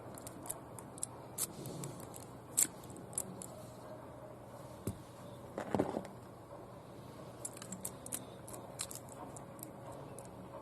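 Car key clicking and rattling in a jammed ignition lock cylinder that won't turn, with the keys on the ring jangling in scattered light clicks and a louder rattle about six seconds in.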